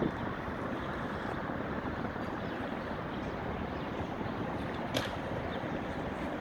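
Steady outdoor rushing noise, a mix of the kind heard at a river's edge from wind, water and distant traffic, with one short sharp click about five seconds in.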